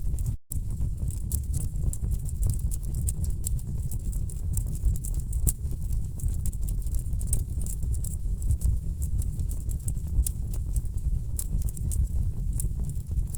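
Wood fire crackling in a fireplace: many irregular sharp pops and snaps over a low, steady rumble of burning logs. The sound drops out completely for an instant about half a second in.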